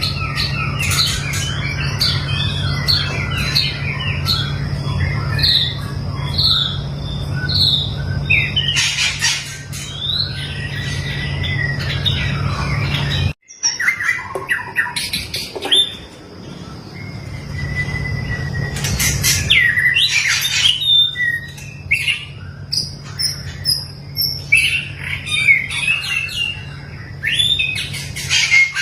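Songbird, likely a white-rumped shama, chirping and calling in quick, varied phrases, with short whistles and harsher notes. A steady low hum runs under the first half, and the sound drops out briefly about halfway through before the calls resume.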